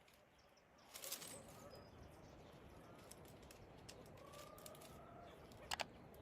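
Faint bird calls, drawn out and sliding slightly in pitch, with a few sharp clicks, the loudest two near the end.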